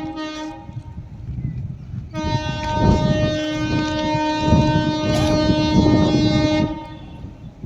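A WAP-4 electric locomotive's horn sounds twice: the tail of one blast cuts off about half a second in, then a long steady blast of about four and a half seconds follows. The rumble and clatter of the passing train's wheels run underneath.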